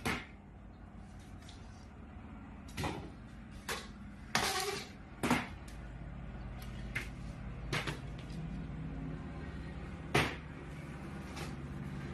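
Steady low machine hum with a series of sharp knocks and clatters, about seven in all, loudest about four to five seconds in and again about ten seconds in.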